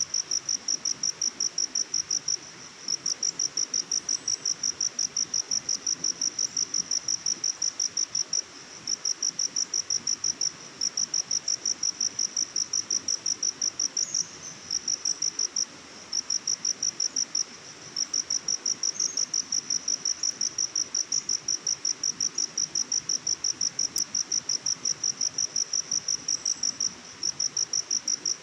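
A cricket chirping: a high-pitched, fast, even pulsing in long runs broken by short pauses every few seconds, over a faint steady hiss of forest ambience.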